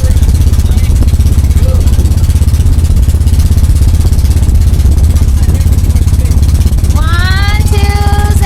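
A small boat's pull-start engine running steadily under way, a loud, fast low drone. About seven seconds in, a voice calls out, rising in pitch and then held.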